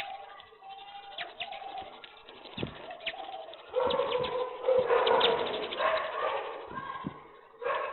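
Pigeons cooing, with short sharp calls from other birds; the cooing grows louder about halfway through.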